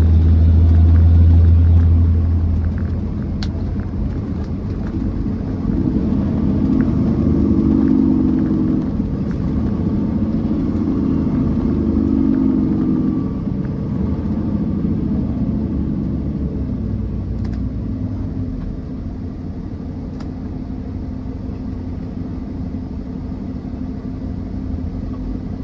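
Diesel semi truck driving in traffic: a steady engine drone and road rumble. A deep hum is loudest for the first couple of seconds, and a stronger engine tone comes in from about six to thirteen seconds in.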